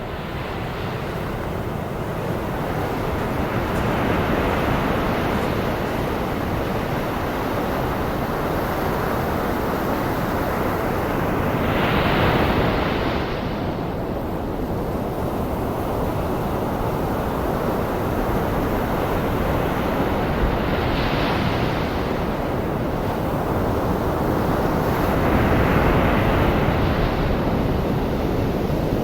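Ocean surf mixed with a steady white-noise hiss. Waves break in swells every several seconds over the constant noise bed.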